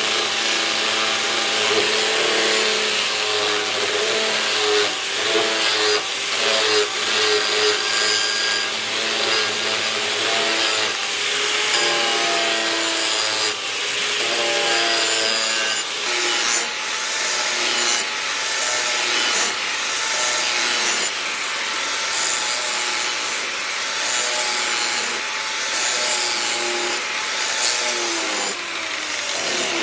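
Power sander or grinder working the piece, a continuous abrasive scraping with a motor tone that shifts in pitch as the work is pressed on and eased off.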